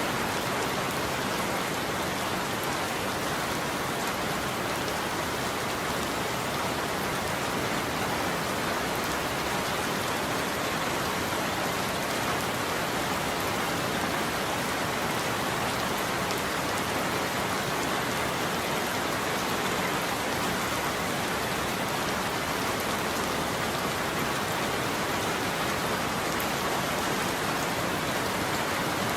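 Steady heavy rain falling on a roof, an even, unbroken patter.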